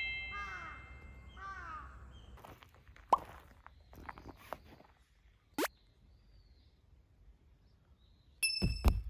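Edited-in sound effects: a chime ringing out at the start, two quick rising pop blips a few seconds apart, and a bright ding with a couple of low thumps near the end, over faint outdoor background.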